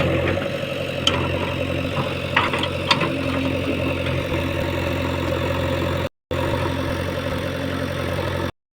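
Diesel engine of heavy farm machinery running steadily at low speed, with a few light clicks over it. The sound cuts out completely twice, briefly about six seconds in and again near the end.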